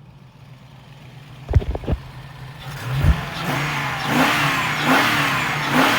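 TVR Chimaera's 4.5-litre V8 running, with a couple of knocks early on, then revved up and down about four times in the second half.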